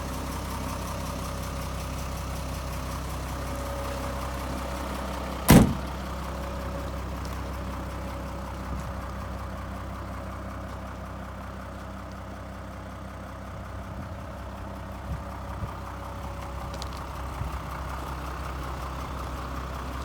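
Mitsubishi 6D14 six-cylinder diesel idling steadily, a low even hum. About five and a half seconds in there is a single sharp knock, the loudest sound.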